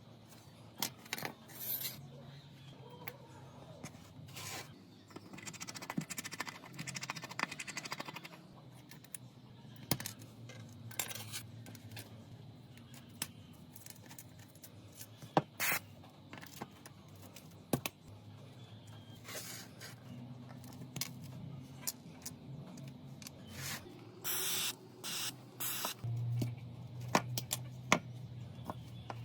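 Small hand tools clicking, tapping and scraping against a smartphone's glass and metal frame as it is worked on, with a few short hissing bursts near the end.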